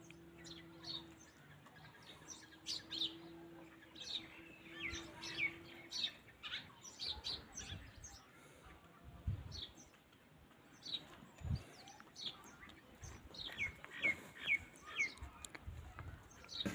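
Small birds chirping again and again: short, high chirps that fall in pitch, some in quick runs. A faint steady hum lies underneath for the first few seconds.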